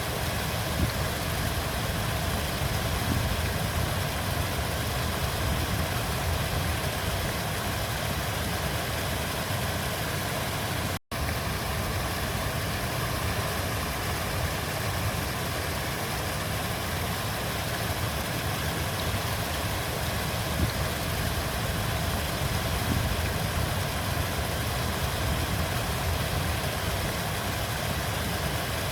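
River water flowing, a steady rushing with a deep low rumble, broken by a brief dropout about eleven seconds in.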